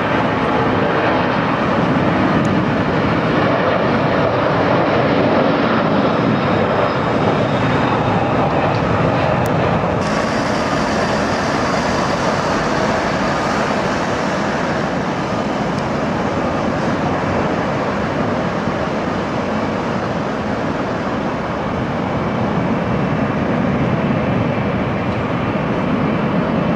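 Airplane engines at takeoff power: a loud, steady rush of noise. About ten seconds in, a sharper hiss comes in suddenly.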